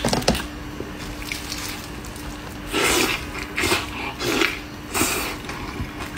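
A person biting and chewing braised pork knuckle close to the microphone. Some clicks come at the start, and four short bursts of chewing and smacking come in the second half.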